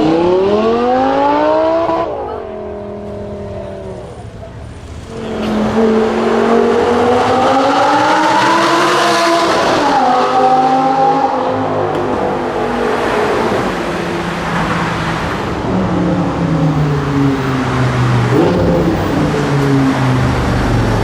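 Audi R8's V10 engine through an aftermarket exhaust, accelerating hard: the note climbs steeply and drops at a gear change about two seconds in. After a quieter spell, a second hard pull from about five seconds climbs until another shift near ten seconds, followed by further rises and drops as it goes up the gears.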